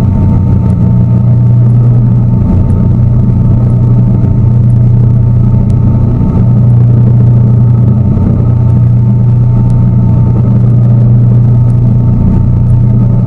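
Tour boat's engine running steadily under way, a loud, even low drone heard from on board.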